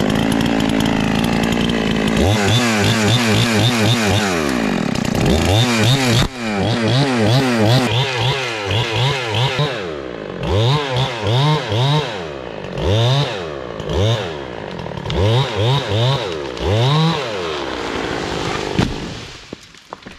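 Two-stroke chainsaw making the felling cut in a hickory trunk. It holds at full revs for about two seconds, then is revved up and down over and over, and drops off near the end. A single sharp knock comes just before it drops off.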